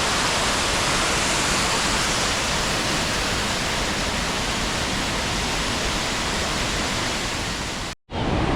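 Steady rush of fast-flowing water from a mountain river or waterfall. It cuts out for a split second near the end, then resumes.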